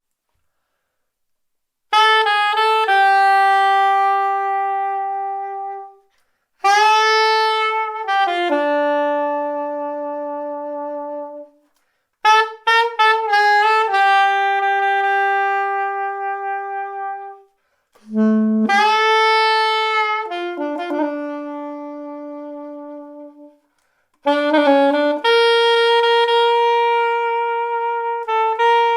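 Yanagisawa SC-901 curved soprano saxophone with an Otto Link Tone Edge mouthpiece playing an unaccompanied jazz melody. It comes in about two seconds in and plays five phrases, each ending on a long held note, with short breaths between them.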